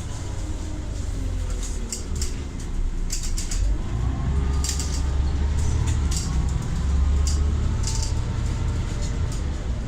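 Scania Omnicity bus under way: a low engine rumble that grows stronger about four seconds in, with the whine of its ZF automatic gearbox gliding up and down in pitch. Scattered sharp clicks and rattles sound over it.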